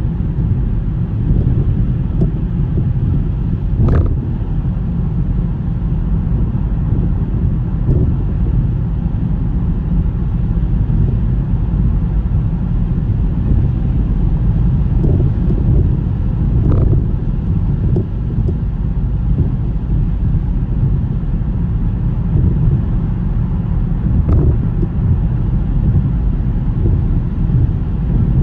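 A car driving through a snowstorm: a steady low rumble of road and wind noise, broken by a few brief knocks, with the clearest at about 4 and 17 seconds in.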